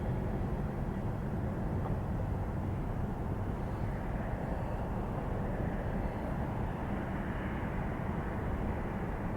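Jet airliner engines during a takeoff and climb-out: steady low engine noise that slowly fades.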